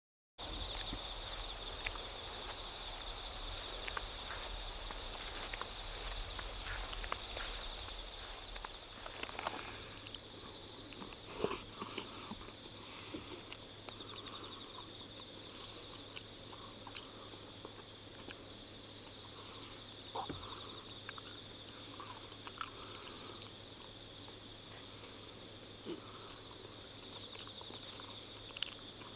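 A summer chorus of crickets and other insects trilling steadily at several high pitches at once, cutting in abruptly just after the start, with a faint low hum and scattered faint clicks beneath.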